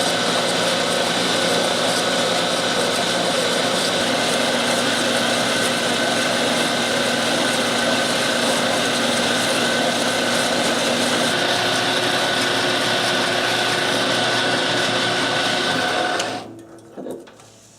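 Power saw running steadily as it cuts a length off round bar stock, its tone shifting slightly about two-thirds of the way through. Near the end it shuts off and quickly winds down.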